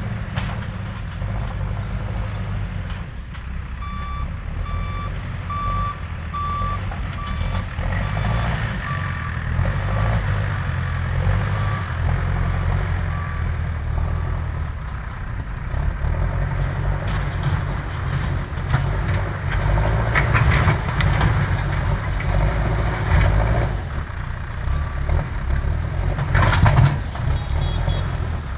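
JCB backhoe loader's diesel engine running under working load, with its reversing alarm beeping about once a second from about four seconds in until about thirteen seconds. Near the end comes a loud clatter.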